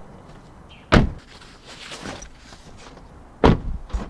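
Two car doors slamming shut, one about a second in and the next about two and a half seconds later, followed by a lighter knock.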